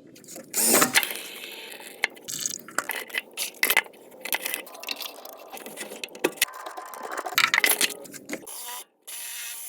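Irregular clicks, knocks and scrapes of hand work on a water heater's pressure relief valve and its metal fittings, with a louder scrape about half a second in. The sound cuts out briefly near the end.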